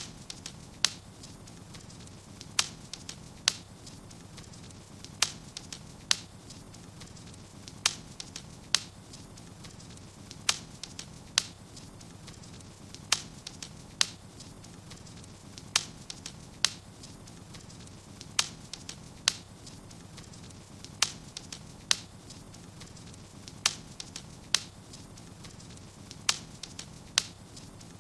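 Wood fire crackling in a fireplace: sharp pops over a steady low rumble. The pops come in pairs, and the pattern repeats very evenly about every two and a half seconds.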